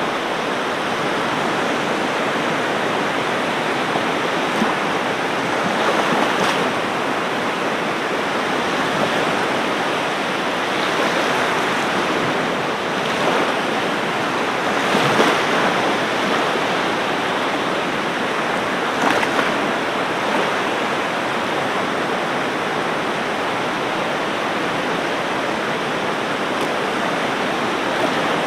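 Ocean surf: a steady rushing wash of breaking waves that swells a little louder now and then.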